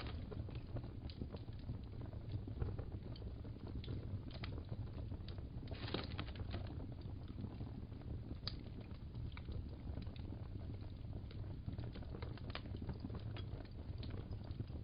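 Wood fire crackling in a fireplace: irregular sharp pops and crackles over a steady low rumble of the flames.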